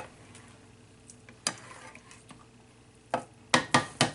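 Spoon tapping and scraping against the pan of simmering cream sauce: a single clink about a second and a half in and a quick run of clinks near the end, over a faint steady simmer.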